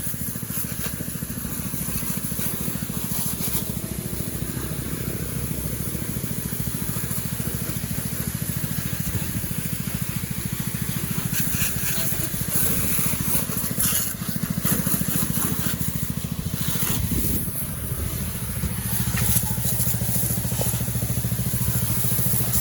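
A motor running steadily with a fast, even low pulse, under a constant high hiss.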